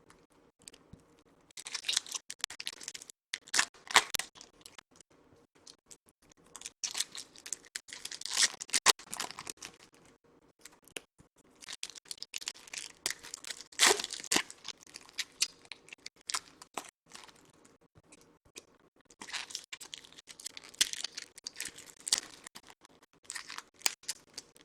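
Foil wrappers of Topps Chrome baseball card packs being torn open and crinkled, with cards sliding and shuffling in the hands. It comes in several separate spells of a few seconds each, with quiet gaps between.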